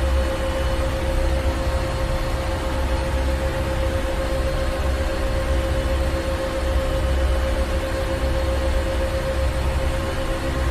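Ship's engine room machinery running steadily: a deep, low rumble with a constant hum tone and an even hiss over it, unchanging throughout.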